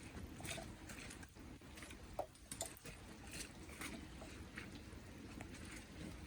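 Heavy rain pattering, with scattered irregular taps of drops landing close by over a low steady background.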